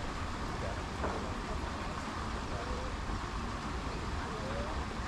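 Outdoor park ambience: a steady low rumble of wind on the microphone and distant traffic, with faint far-off voices and a single light click about a second in.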